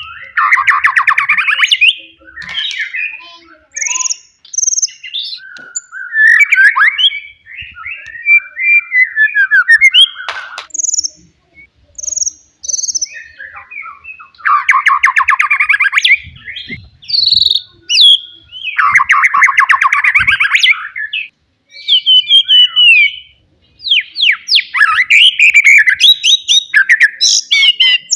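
A wild white-rumped shama sings a loud, varied song. Fast, rattling trill phrases come about a second in, midway and again a little later, and between them the bird gives quick whistled notes and high chirps, with brief pauses between phrases.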